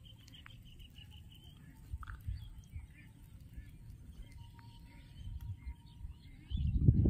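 A bird calls with a quick run of short, high chirps in the first second or so, followed by scattered fainter chirps, over a low steady rumble. Near the end a much louder low rumble comes in suddenly.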